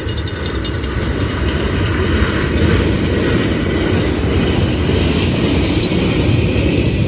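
Train passing close by: a steady rumble and clatter of wheels on rail that grows slightly louder.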